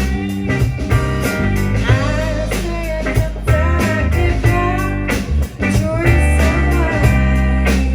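Live band music: a singer with guitar over a steady bass line.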